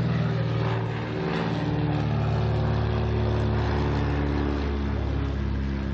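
A machine running steadily with a loud, low, even drone, having started up abruptly just before.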